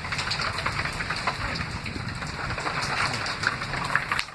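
Thunderstorm rain falling steadily, with many separate drops striking hard surfaces close by.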